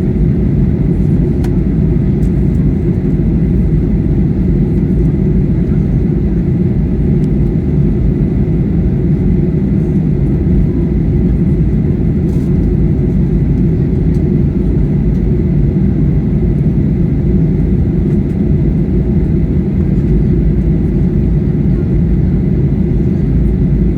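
Steady low rumble of cabin noise inside a Boeing 737-800 on descent: its CFM56 engines and the airflow over the fuselage, with a faint high steady tone above it.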